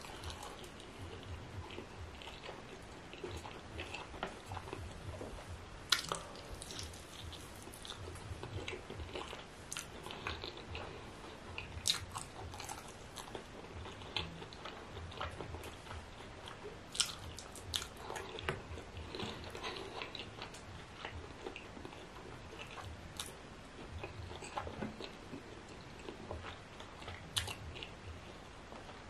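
Close-miked chewing and biting of meat in ogbono soup, with wet mouth sounds and sharp crunchy clicks every few seconds.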